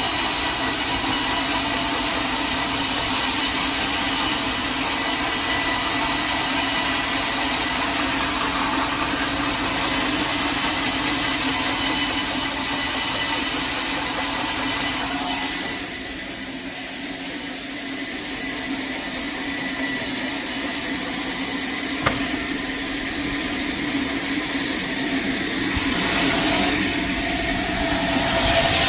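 Sawmill blade cutting through a log with its motor running, a steady, loud saw noise that eases off about halfway through and changes again near the end.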